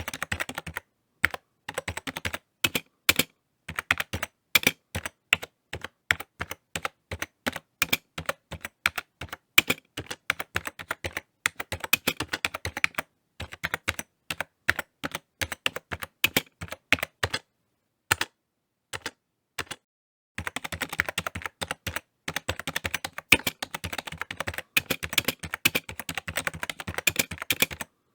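Typing on a computer keyboard: runs of quick key clicks broken by short pauses, with a long pause near two-thirds of the way through followed by a fast, dense flurry of keystrokes.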